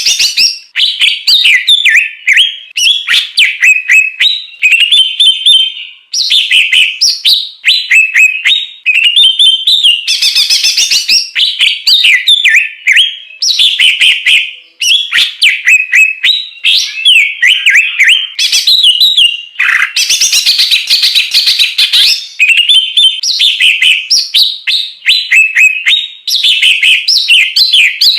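Songbird song playing loud and almost without pause: fast, varied phrases of chirps, trills and whistled glides, broken by a few harsher, raspy stretches.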